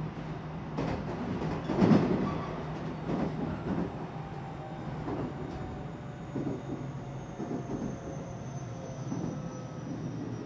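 JR West 227 series electric train running, heard from inside the passenger car: steady rumble and hum with irregular knocks and rattles from the wheels and car body, the loudest about two seconds in. A faint high whine slowly falls in pitch through the second half.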